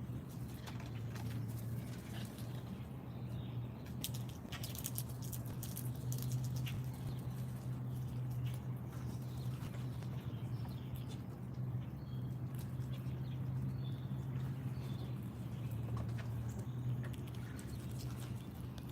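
Small animals feeding at a backyard seed feeder: irregular clicks, taps and scratches, with a few faint brief chirps, over a steady low hum.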